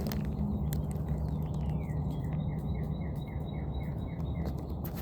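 A songbird singing: a falling note, then a quick run of short repeated chirps, about four a second, over a steady low background rumble with scattered light clicks.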